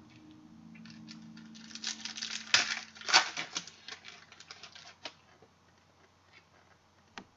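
Trading cards and their plastic packaging being handled: a few seconds of crackling and sharp clicks, the loudest two close together in the middle, then one more click near the end. A faint low hum is there for the first couple of seconds.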